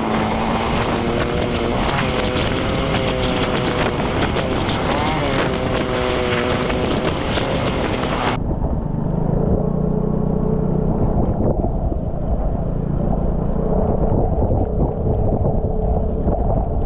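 Vespa scooter engine running under way, with wind buffeting the microphone. About halfway through, the sound changes abruptly to a duller, steadier low hum.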